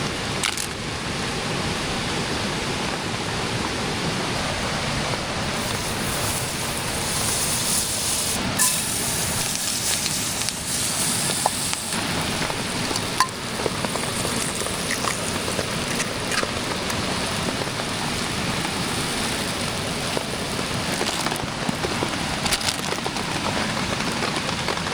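Steady rushing of a mountain creek mixed with light rain, with a few scattered sharp ticks and pops.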